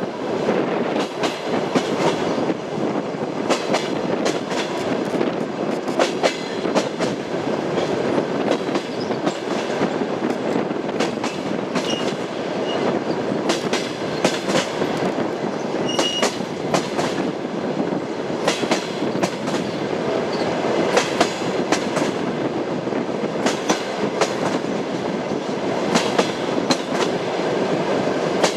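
Train wheels clattering on the rails: a steady rumble with irregular clicks and knocks from the wheels over rail joints, and two brief high squeaks about halfway through.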